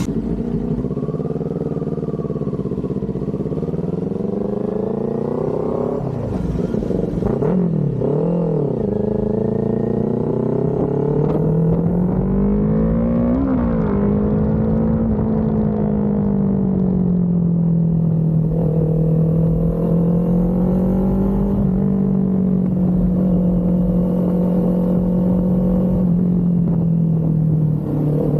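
Kawasaki Z400's parallel-twin engine running while being ridden. Its pitch falls and rises several times in the first third, then holds fairly steady at cruising speed with small rises and falls.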